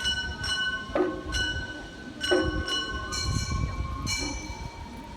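Gion-bayashi festival music from the float: small brass kane gongs struck again and again in an uneven rhythm, each strike ringing on, over long held notes of the fue flute.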